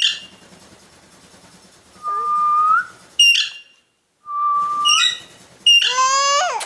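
Indian ringneck parakeet giving short, shrill calls three times, with two clear whistles between them, each held on one note and rising at the end.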